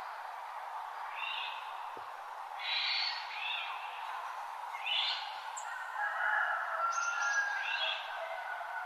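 Wild birds calling in a dawn chorus: short, repeated chirping phrases every second or two, with a few lower whistled notes, over a steady background hiss.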